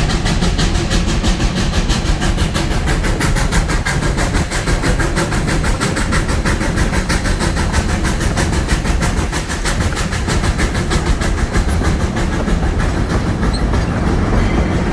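Steam train running, with a rapid, even beat of chuffs and clatter over a steady rumble; the beat grows fainter near the end.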